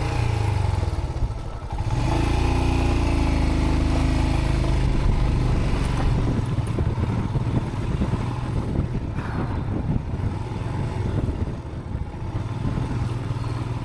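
Motorcycle engine running at low revs while riding over a loose gravel and rubble track, its note wavering in the first couple of seconds, with steady rattling and buffeting noise from the rough ground for the rest.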